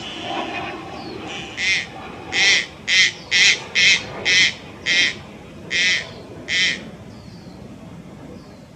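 Subadult Malayan night heron giving a series of about nine short, harsh, quavering calls, starting about a second and a half in, fast in the middle and spacing out toward the end, over a low background rumble.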